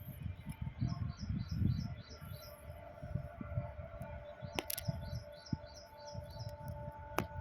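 A small bird chirping in quick series of short, high notes over a low, uneven rumble, with a couple of sharp clicks.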